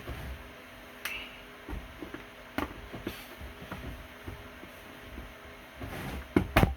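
Scattered clicks and knocks of handling, with two loud knocks close together near the end, over a faint steady hum.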